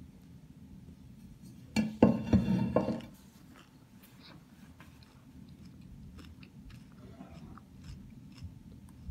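Someone chewing a mouthful of grilled lettuce, with small clicks throughout. About two seconds in there is a louder sound lasting about a second.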